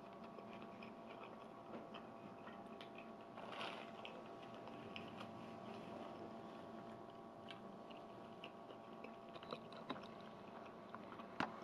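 Close-miked chewing of a mouthful of vegan burger: soft, wet mouth clicks and smacks, with a brief louder patch about three and a half seconds in and a sharp click near the end. A faint steady hum sits underneath.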